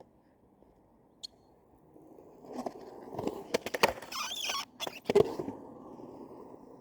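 Skateboard sounds: a single sharp click, then about three seconds of scraping and rolling with a run of sharp clacks, the loudest near the end, before it settles back to a low hiss.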